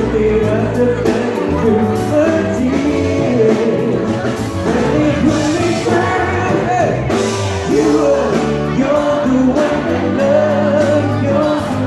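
Live pop band playing with a male lead vocal singing over drums and bass.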